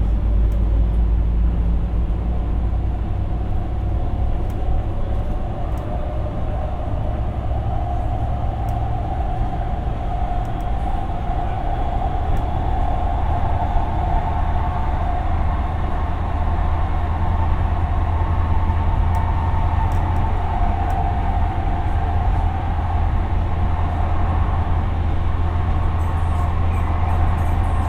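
Siemens P2000 light rail car running at speed, heard from inside the car: a steady low rumble with a whine that rises slightly in pitch and then holds.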